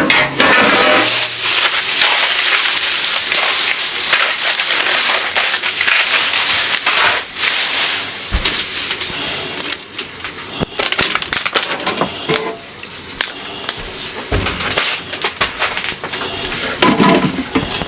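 Clattering and knocking of containers and refrigerator parts being handled, many short sharp knocks. There is a steady hiss through the first half that stops about eight seconds in.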